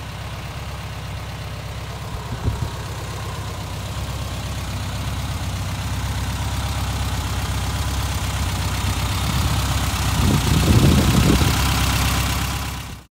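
VW Beetle's air-cooled flat-four engine idling steadily, with a freshly adjusted carburetor. It grows louder, with a short knock about two and a half seconds in and a louder stretch near the end, then cuts off abruptly.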